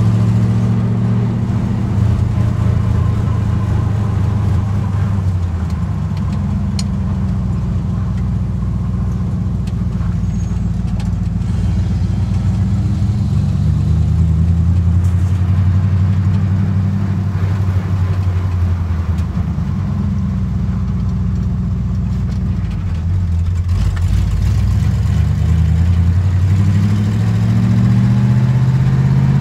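1965 Ford Galaxie 500's 351 Windsor V8 running on the road, heard from inside the cabin, its engine note rising and falling several times as the car speeds up and slows.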